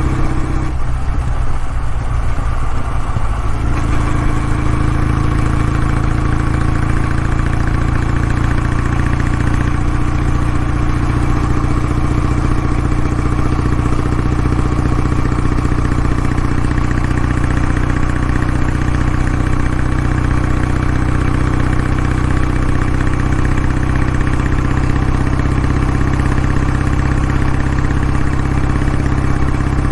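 Kawasaki W650's air-cooled parallel-twin engine idling through its exhaust, a steady, even note that barely changes, with a brief shift in tone between about one and four seconds in.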